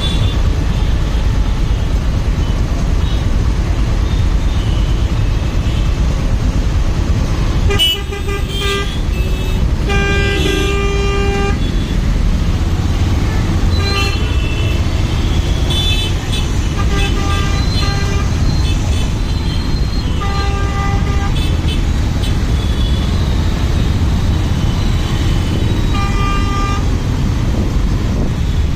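Steady low wind and road rumble from a motorcycle riding through city traffic, with other vehicles' horns honking several times, short toots grouped in the middle and once more near the end.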